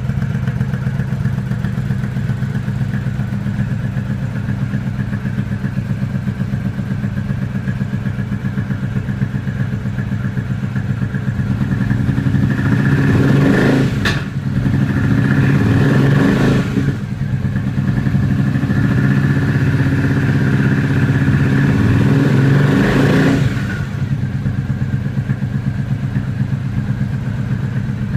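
2006 Triumph Speedmaster's parallel-twin engine idling steadily, then revved three times about halfway through, the last rev held for several seconds before it drops back to idle.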